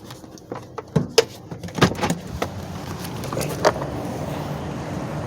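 A few sharp clicks and knocks, then a car engine's steady low hum that sets in about halfway and grows louder.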